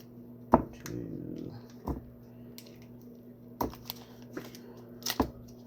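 Sharp taps and knocks of a kitchen utensil against a container, four in all, spaced a second or more apart, as butter is cut into a garlic and parsley paste. A faint short whine comes about a second in.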